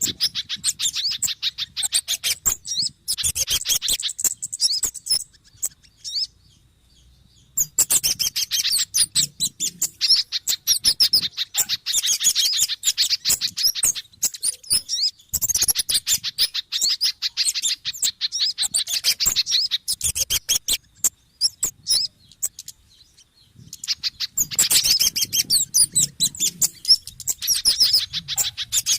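Bird-lure recording of agitated bird calls mixing kemade, sogon and pijantung (spiderhunter) calls: dense, rapid high chirping in long runs, with two short pauses, about six seconds in and again past twenty seconds in.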